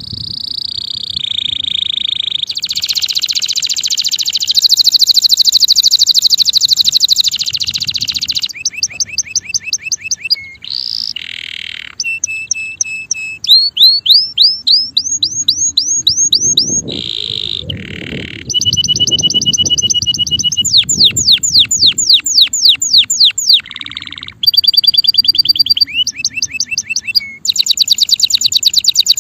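Male canary singing a long, loud song of rapid trills: runs of quickly repeated identical notes, each run giving way to a different one every second or two.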